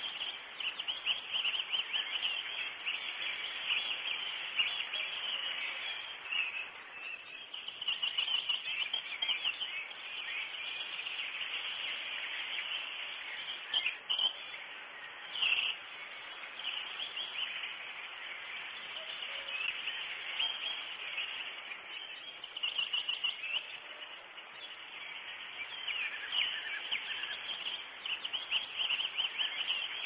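Birds chirping and calling, a busy chorus of short high notes that runs without a break.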